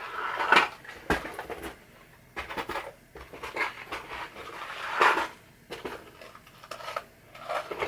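Scattered light clicks, clinks and rustles of small metal screws and parts being handled and sorted through by hand, with a brief louder rustle about five seconds in.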